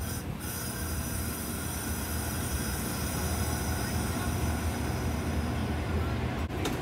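Commuter train standing at the platform with its engine running: a steady low rumble, with a steady high hiss that comes in just after the start.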